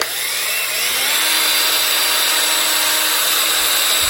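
Cordless drill starting up and running at steady speed, its whine rising in pitch over the first second, spinning a hand plane's brass adjuster knob mounted on a screw, with a steady hiss throughout.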